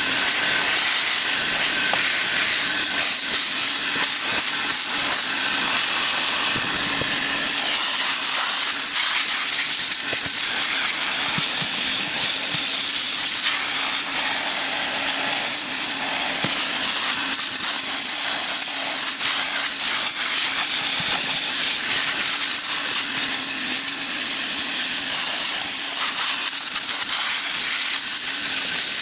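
High-pressure cleaning spray hissing steadily, with a faint steady hum beneath.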